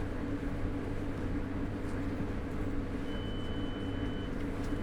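London Underground 2009 Stock train standing at a platform, its onboard equipment giving a steady low hum. A faint high steady tone joins about three seconds in.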